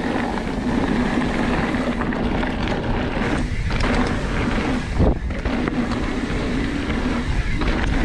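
Mountain bike being ridden fast down a dirt trail: wind rushing over the microphone and tyre noise, with a steady hum underneath and a sharp knock about five seconds in.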